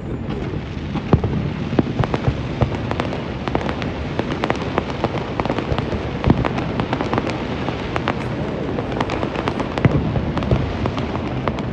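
Fireworks display going off: a rapid, continuous barrage of bangs and crackling, with a few louder booms standing out, about a second in, around six seconds in and near ten seconds.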